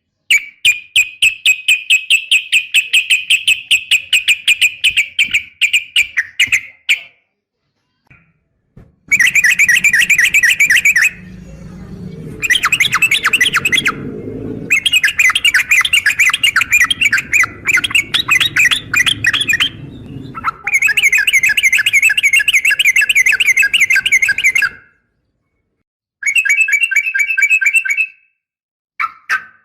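Yellow-vented bulbul (trucukan) giving long, rapid rattling trills of fast repeated notes, in about six runs of a few seconds each with short breaks between them. It is a lure recording of a bird said to be a female calling males, meant to set male bulbuls singing.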